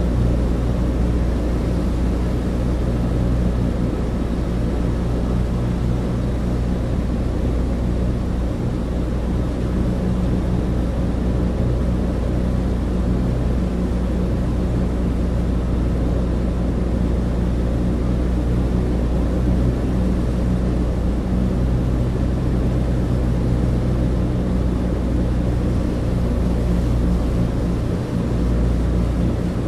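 Cabin interior of a Douglas DC-3: the steady drone of its twin radial piston engines, a deep even hum under a constant rush of air, with no change in pitch.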